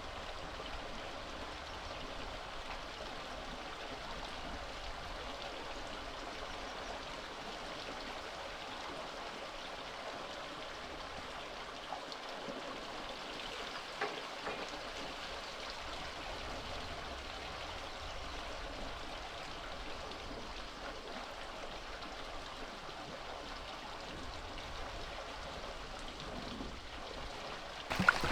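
Steady sound of running water, with a couple of faint clicks partway through.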